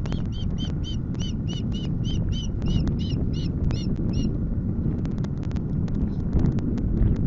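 Osprey calling a quick series of short whistled notes, about three to four a second, which stops about four seconds in. Heavy wind rumbles on the microphone throughout, and a scatter of faint clicks follows the calls.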